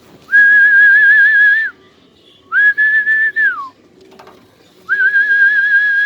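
A person whistling three long notes, each held at one pitch with a quick, even warble; the second note ends in a downward slide.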